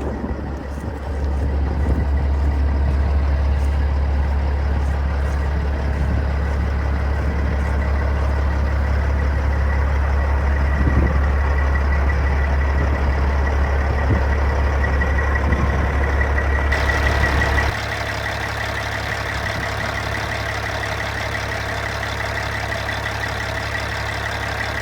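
2007 Peterbilt 379 semi truck's diesel engine idling steadily with a deep rumble. About three-quarters of the way through the sound changes abruptly, the deep rumble dropping away while a steady engine sound carries on.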